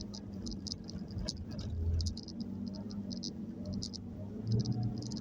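Nissan Serena C23 van on the move: a steady low engine and road rumble, with irregular clusters of short, high-pitched chirps or squeaks over it.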